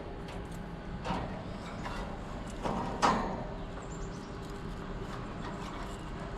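A few clunks and knocks of tools and parts being handled during a condenser fan motor replacement, the sharpest about three seconds in, over a steady low hum.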